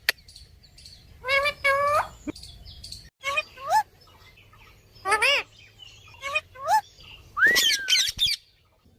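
A parrot calling: about five groups of short whistling calls that swoop up and down in pitch, the longest near the end.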